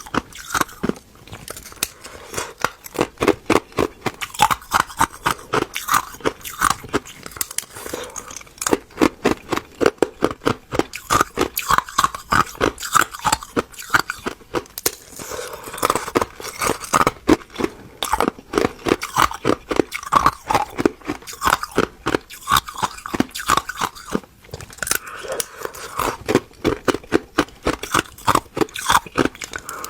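Ice being chewed close to the microphone: a quick, steady run of crisp crunches as the cubes crack between the teeth, with brief pauses between bites.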